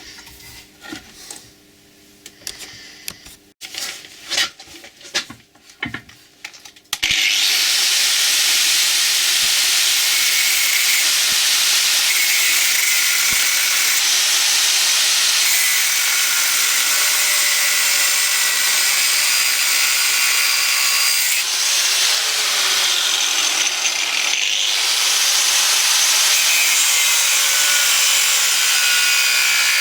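A few scattered knocks and clanks of metal being handled, then about seven seconds in a power tool starts up and cuts steadily through a piece of steel angle iron, with a loud continuous hiss that dips briefly twice later on.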